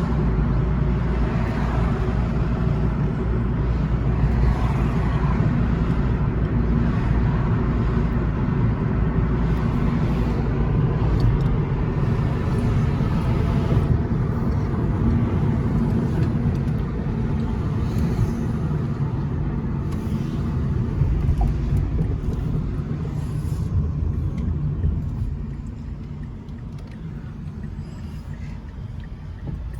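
Car driving: steady low engine and road rumble, easing quieter about 25 seconds in.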